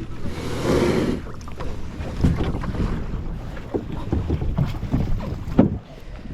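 Kayak paddling: a paddle splash about half a second in, then water lapping and scattered knocks, the sharpest near the end, over wind rumbling on the GoPro microphone.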